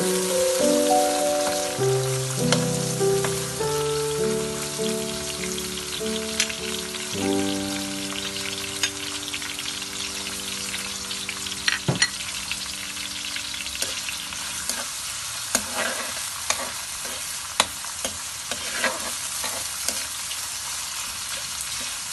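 Chopped onions, tomatoes and ginger sizzling as they are sautéed in a pan, with sharp clicks of a utensil against the pan scattered through the second half.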